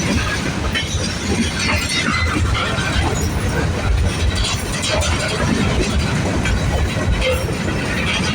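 Manifest freight train rolling past, its steel wheels rumbling steadily on the rails.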